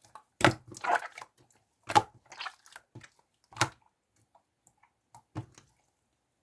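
Irregular sharp clicks and crackles, a few loud ones one to two seconds apart, dying away to quiet near the end.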